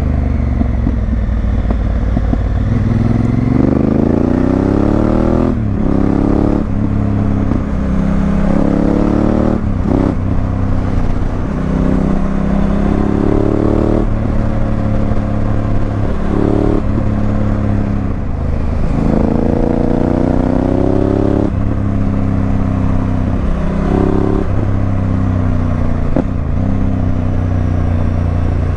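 Honda Africa Twin CRF1000L's 998 cc parallel twin, fitted with an aftermarket Remus exhaust, pulling hard while the bike is ridden. The engine note climbs in pitch and then breaks off and drops about a dozen times as the rider shifts gears and rolls the throttle on and off, with a couple of longer climbs in the second half.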